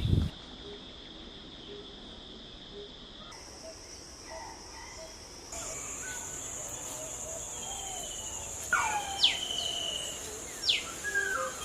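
Steady high-pitched insect drone, like crickets or cicadas, that changes pitch at a few abrupt cuts. From about three-quarters of the way through, birds call with repeated sharp falling whistles about a second apart.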